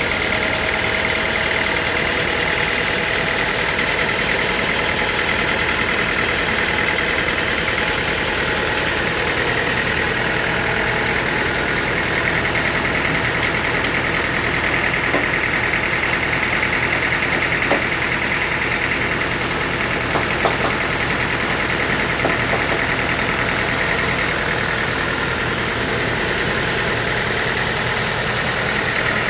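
Sawmill machinery running steadily: a motor's drone with a constant high whine, and a few light knocks near the middle.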